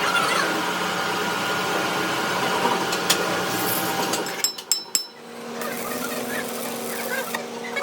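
Workshop noise: a dense clattering background with a few sharp metallic clicks and knocks, then a steady machine hum from about five seconds in.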